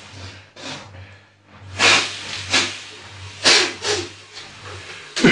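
A person giving a series of short, forceful hissing exhalations, about six irregular bursts, over a faint steady low hum.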